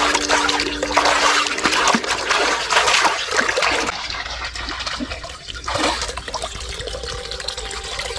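Water splashing and trickling, busiest in the first few seconds and calmer after about four seconds.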